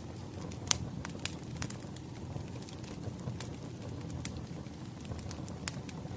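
Wood fire crackling: a steady low rumble of burning logs with irregular sharp pops. The loudest pop comes a little under a second in.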